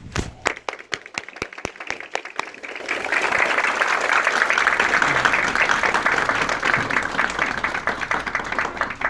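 Audience applauding: a few scattered claps at first, swelling into full applause about three seconds in.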